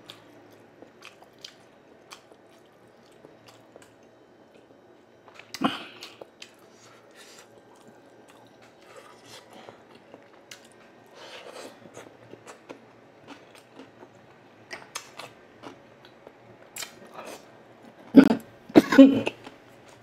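Close-miked chewing and biting of deep-fried, batter-coated eggs (kwek-kwek and tokneneng), with many soft wet mouth clicks. A louder mouth or throat sound comes about six seconds in, and two more, the loudest, come near the end.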